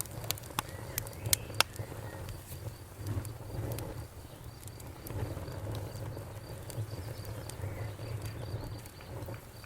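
Wood fire burning in a fireplace: a steady low rumble of flames with sharp crackles and pops, a cluster of loud pops in the first two seconds and sparser ones after.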